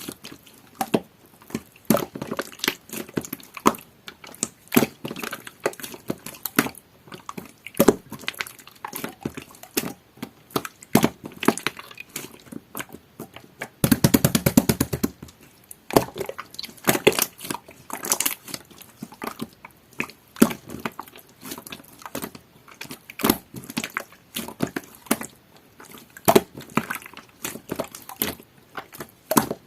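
Clear jelly-textured slime being squished and pressed by hand, giving an irregular run of sticky, wet clicks and pops, with a dense burst of crackling about fourteen seconds in.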